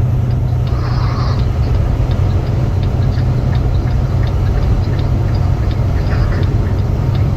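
Steady low drone of a semi truck's engine and road noise heard inside the cab while cruising on the highway, with a few faint ticks.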